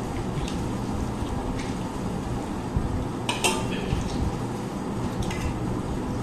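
A few short, light clinks of plates and cutlery at a meal, the sharpest about three and a half seconds in, over a steady low hum.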